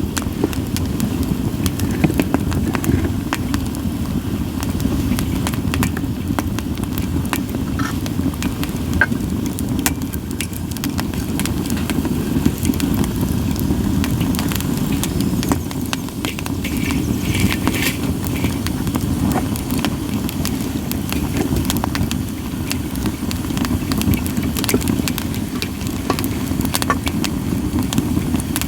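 Split sawtooth oak (kunugi) firewood burning in a campfire: frequent sharp crackles and pops over the steady low rumble of the flames, with a brief hiss about two-thirds of the way through.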